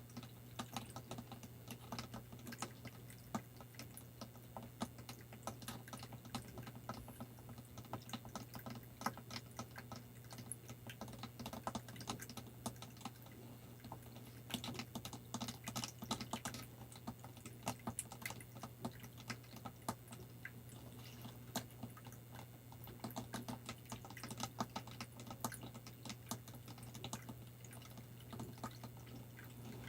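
Rapid, irregular tapping and clicking on props, a dense patter of small clicks over a steady low hum.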